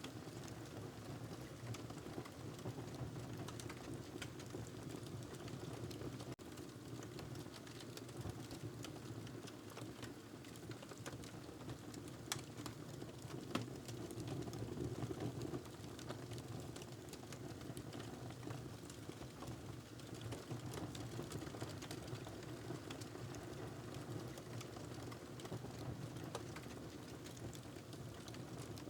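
Wood fire crackling in a fireplace: a steady low rumble of flames with scattered sharp pops and snaps, a few of them louder around the middle.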